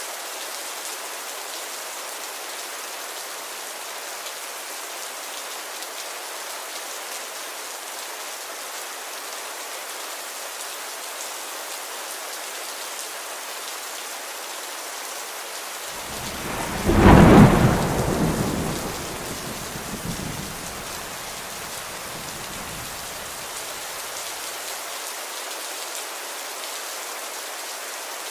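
Steady rain falling, with a single clap of thunder about two-thirds of the way through that rumbles and fades over several seconds.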